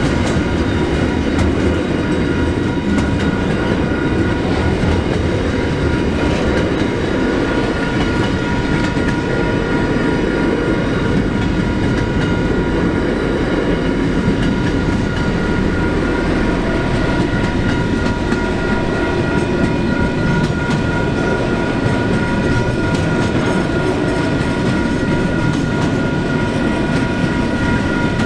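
Container wagons of a long intermodal freight train rolling steadily past, wheels clattering and rumbling over the rail joints. Over it runs a steady two-tone electronic ringing from the level crossing's WCH 777 e-bell.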